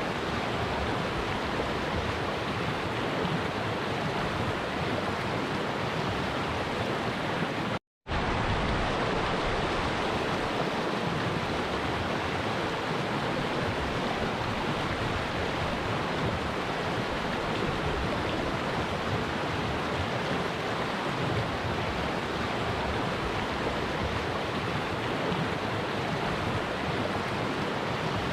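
Stream water rushing and splashing steadily, with a sudden brief dropout about eight seconds in before the rushing resumes.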